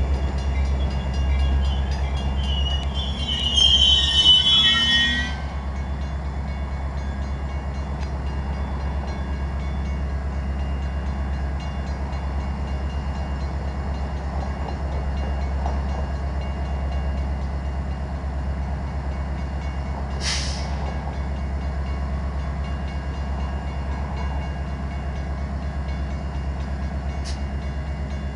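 Metra diesel commuter train coming to a stop, its brakes giving a high squeal for about two seconds before the rolling noise drops away. The locomotive's diesel engine then idles with a steady low hum, with one short hiss of air about twenty seconds in.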